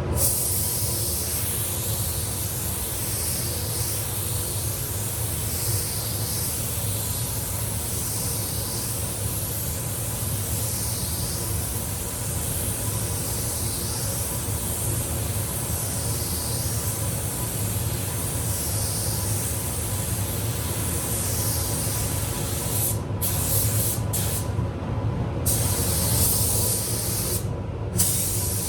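Compressed-air spray gun spraying primer onto a car bonnet: a steady hiss that swells and fades every two or three seconds, over a low steady hum. The hiss stops briefly a few times near the end.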